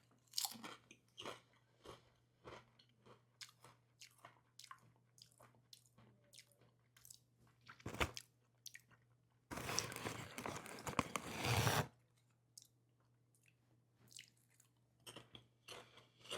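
Lay's potato chips being crunched and chewed, a string of short crisp crunches, with a denser burst of noise lasting about two seconds near the middle.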